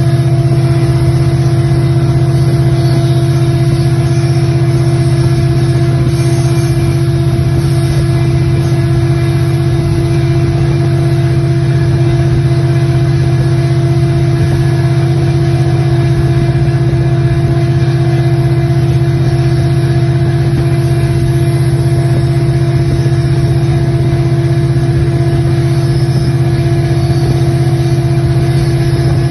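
Diesel engine running with a loud, steady drone that holds one pitch and level throughout, as from a diesel locomotive heard close at steady speed.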